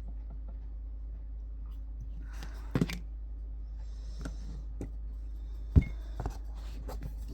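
Cards being handled: soft rustles and a couple of light taps, the sharpest about three seconds in and near six seconds, over a steady low electrical hum.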